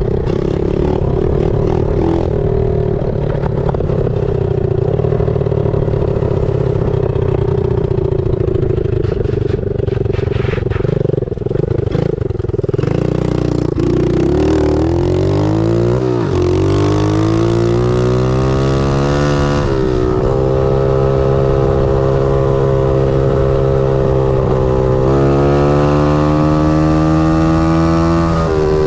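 Pit bike engine at speed. For the first half it runs at a steady pitch under a heavy rush of noise. Then it revs hard through the gears, its pitch climbing and dropping back at each shift, holding steady for a few seconds and climbing again near the end.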